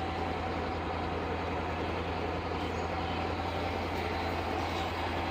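Truck engine idling steadily: an even low hum with a constant noise over it.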